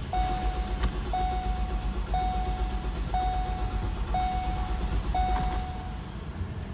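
A 2015 Ford Escape's starter cranking the engine, which does not catch and start; the cranking stops about six seconds in. Over it, the car's warning chime sounds six times, about once a second.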